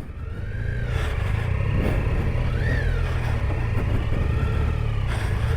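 Triumph Tiger 800 XCa's three-cylinder engine running steadily under riding, with a few brief rises and falls in engine pitch.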